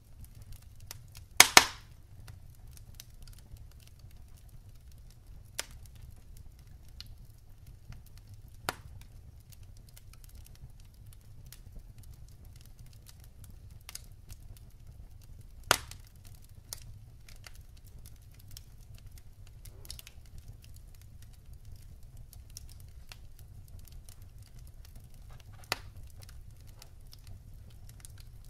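Wood fire in a fireplace crackling: scattered sharp pops and faint ticks over a low steady rumble. The loudest is a quick double pop about a second and a half in.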